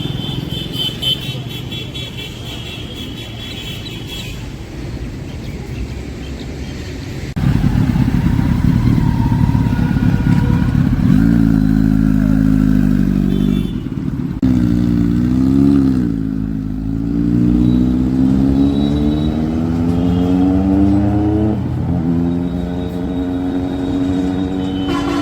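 Motorcycle engine running. About seven seconds in it gets much louder, then is revved and accelerated, its pitch rising and falling several times.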